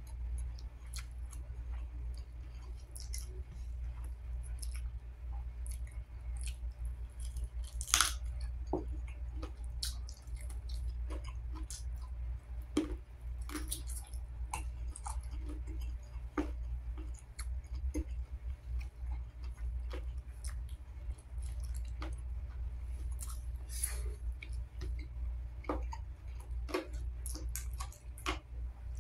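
Close-up chewing and mouth smacking of chicken adobo and rice eaten by hand, with many short, scattered wet clicks and smacks. A steady low hum runs underneath.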